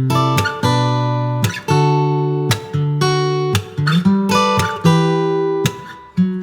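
Background music: acoustic guitar strumming chords, a new chord struck about every second and left to ring.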